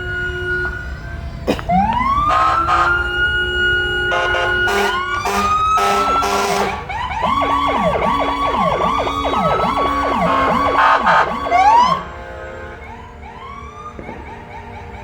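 Several fire engine sirens sounding together: one winds up in a rising wail, others sweep and cycle in a fast yelp, with short loud blasts mixed in. The sirens cut off sharply about twelve seconds in, leaving fainter siren sweeps further off.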